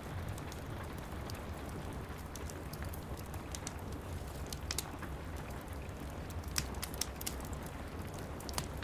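Steady rain pattering, with a low rumble beneath, and a wood fire crackling in irregular sharp snaps over it.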